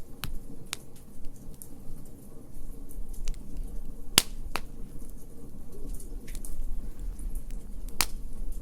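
Wood fire in a fire pit crackling: a low steady rumble of flames with scattered sharp pops, the loudest about halfway through and near the end.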